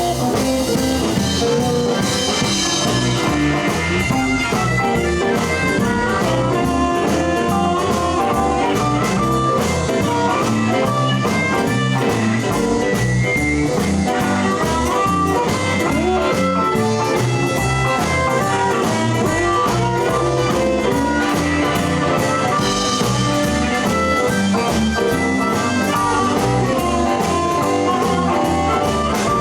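Live blues band playing an instrumental break with no vocals: electric guitar over bass and drums, with keys and harmonica in the band.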